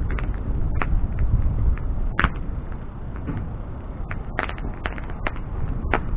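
Wood bonfire crackling, with irregular sharp pops from burning wood, the loudest just over two seconds in and several more close together near the end, over a steady low rumble of the fire.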